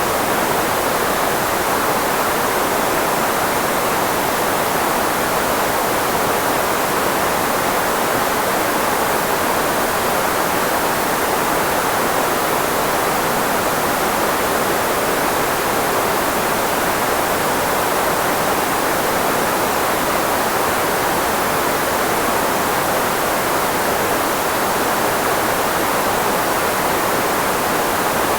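Steady synthetic filtered white noise, shaped to mask the frequencies of the human voice; an even hiss that is strongest in the middle range and thin in the bass, with no change throughout.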